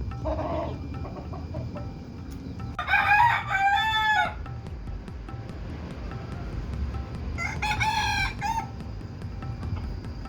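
Rooster crowing twice, each crow a broken call of about a second and a half, the first one louder.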